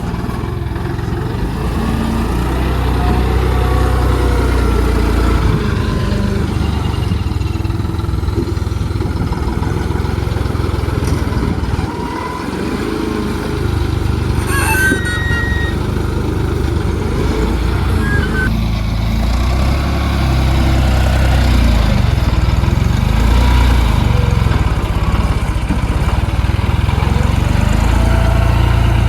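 Tractor diesel engine running steadily while working a front loader, its pitch rising and falling as it is throttled up and down, louder over the last third. A brief sharp clank about fifteen seconds in.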